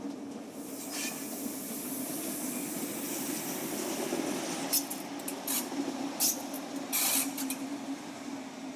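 Train moving in the station: a steady low hum under a rising hiss, with several short, sharp high-pitched bursts, possibly wheel or brake noise, from about five to seven and a half seconds in.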